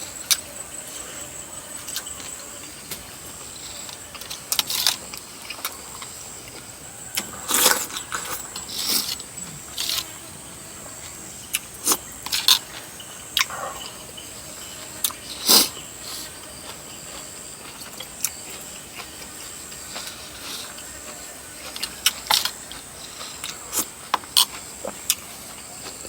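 Someone eating: irregular clicks and short mouth and utensil noises at scattered moments, the loudest about a third and two thirds of the way through, over a faint steady high tone.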